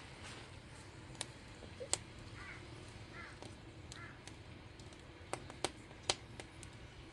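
Wood fire crackling, with a few sharp pops from the burning logs scattered through it. Three short high chirps come in the middle.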